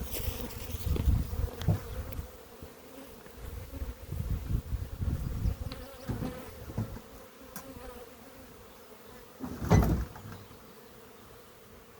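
Honeybees buzzing in a steady hum around an opened hive, with low handling rumbles and a single louder knock about ten seconds in.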